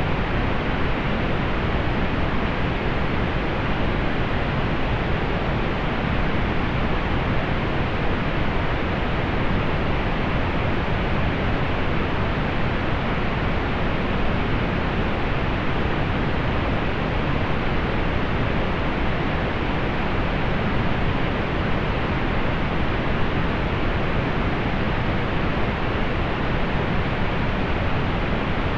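Steady synthetic pink noise: an even, unchanging hiss that is fuller in the lows and rolls off in the highs.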